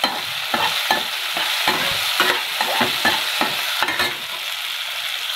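Tomatoes and green chillies frying in hot mustard oil in a kadhai, with a steady sizzle. A spatula scrapes and knocks against the pan about two to three times a second as it stirs.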